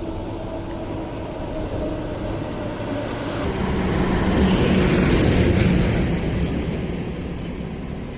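Highway traffic at speed, with one vehicle passing close by: its engine and tyre noise swell to a peak about halfway through, then fade away.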